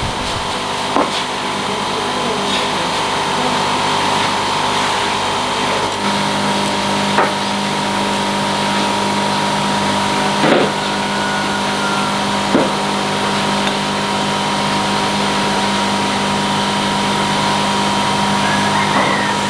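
A steady motor hum holding a few constant tones, with a lower tone joining about six seconds in, and a few faint clicks.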